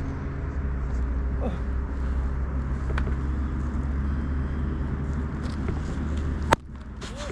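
Steady low hum in the background, with one sharp leather smack about six and a half seconds in: a pitch popping into the catcher's mitt.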